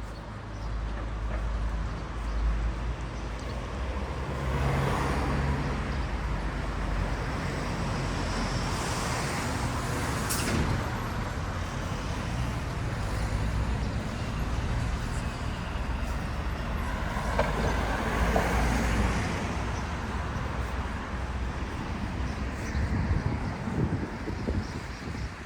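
Street traffic: motor vehicles passing close by over a steady engine rumble, swelling and easing several times.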